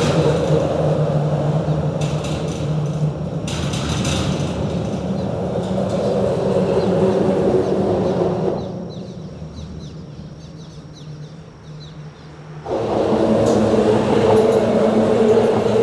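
Steady rumble of road traffic on a bridge. Around the middle it fades for about four seconds to a quieter stretch with faint high chirps, then comes back suddenly.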